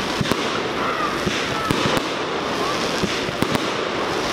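Fireworks display going off: a dense, continuous noise from many shells at once, with sharp bangs at irregular moments, about two or three a second.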